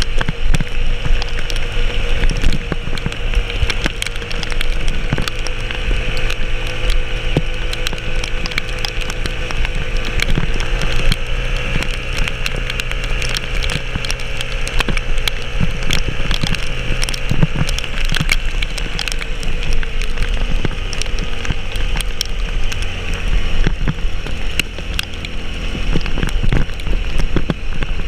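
A vehicle engine running steadily under load, its pitch drifting slightly up and down, with frequent knocks and rattles and a hiss of rain.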